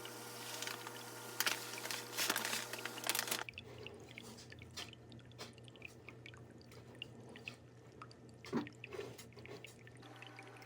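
Granular aquarium soil (Neo Premium Plants soil) pouring into the tank, the grains rattling and crunching with loud bursts, cutting off abruptly about three and a half seconds in. Faint scattered clicks of grains follow, with one louder click near the end.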